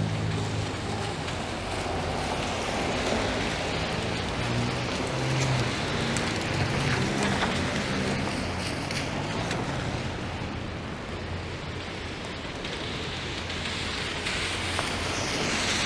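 Rain falling on a city street with traffic on the wet road: a steady hiss with a low engine hum underneath.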